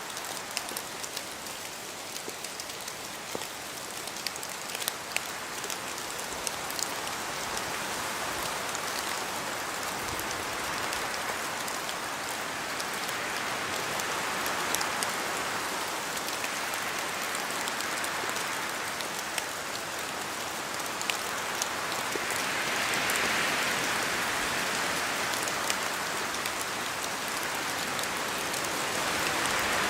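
Steady rain falling in a forest, with many single drops ticking sharply on leaves over a steady hiss. The sound swells in slow waves every few seconds as the wind moves through the trees, and grows slightly louder over the stretch.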